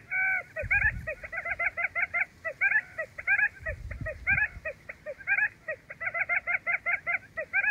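Wild quail (cút rừng) calling: a rapid run of short, clipped chirping notes, several a second, in clusters broken by brief gaps, with a longer drawn-out note at the very start. Two faint low thuds come about one and four seconds in.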